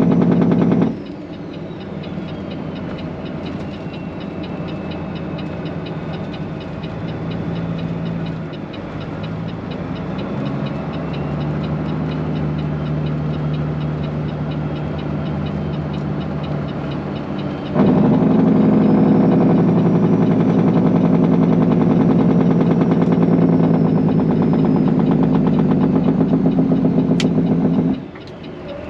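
Straight-piped Peterbilt 389 semi's diesel engine pulling hard, loud and even. It drops back to a quieter run about a second in, with the pitch stepping and slowly climbing. About 18 s in it comes back on loud under load, then drops off again near the end.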